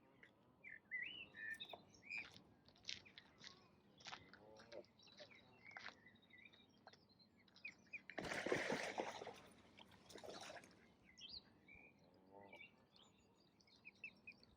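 Ducks and small birds calling: many short, high chirps and a few low duck calls. About eight seconds in, a louder burst of noise lasts about two seconds.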